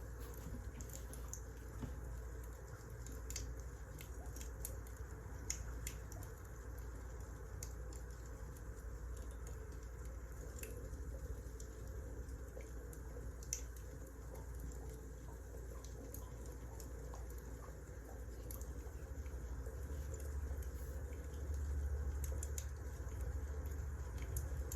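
Burning firewood crackling, with scattered sharp pops over a steady low rumble that grows louder near the end.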